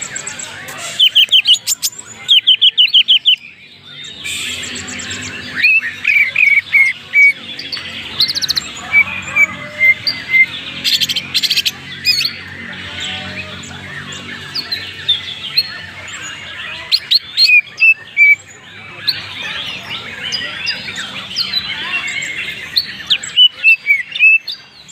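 A cucak ijo (green leafbird) singing continuously: a long, varied song of rapid chirps, trills and whistled notes in quickly changing phrases. The song is rich with 'isian', the imitated songs of other birds that are prized in this species.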